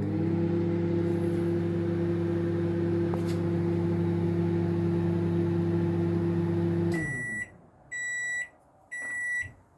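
Microwave oven running with a steady hum that stops about seven seconds in, followed by its beeps, three of them about a second apart, signalling the heating cycle has ended.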